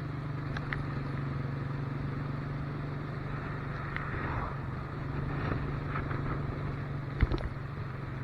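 Motorcycle engine running at a steady note while riding, with wind and road noise. A brief sharp knock comes about seven seconds in.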